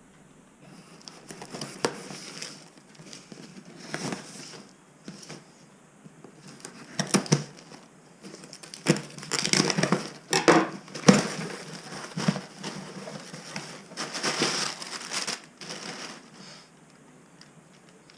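A package being unwrapped by hand: irregular bursts of packaging handling noise that go on and off for about sixteen seconds, loudest around the middle.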